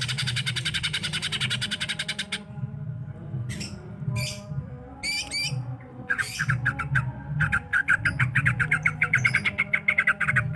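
Cucak ijo (green leafbird) singing: a fast, high rattling trill, then a few separate warbled phrases, then a long run of rapid repeated notes from about six seconds in.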